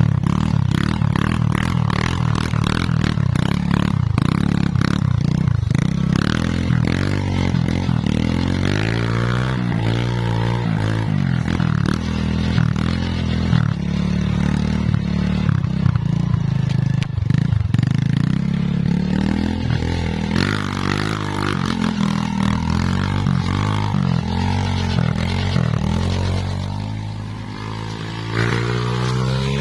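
Two-stroke chainsaw running hard while cutting teak wood, its engine pitch dipping and rising with the load. It drops to a quieter idle for a moment near the end, then picks up again.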